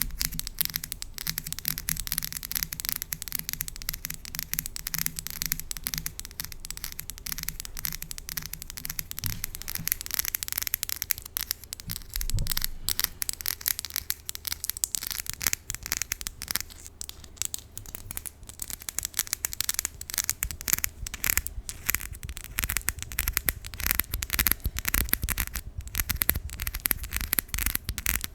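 A key handled with long false nails close to a microphone: a dense, irregular run of small clicks, taps and scratches.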